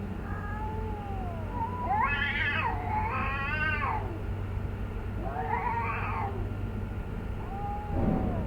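A cat yowling: a series of long, drawn-out, wavering cries, four or five in all, the loudest about two to four seconds in. A steady low hum runs underneath.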